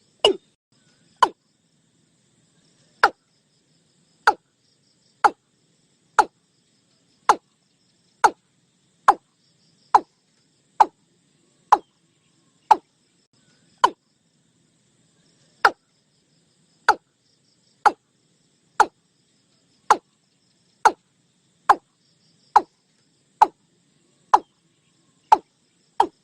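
Watercock calling: a series of short, hollow notes, each falling quickly in pitch, spaced about a second apart. The notes quicken into a fast run right at the end.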